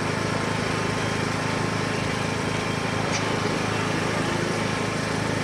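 An engine idling steadily, with a constant low hum and no revving.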